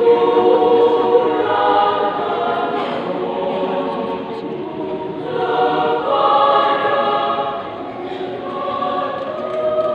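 Mixed choir singing a sustained sacred piece, with a loud entry at the start and another swell a little past the middle.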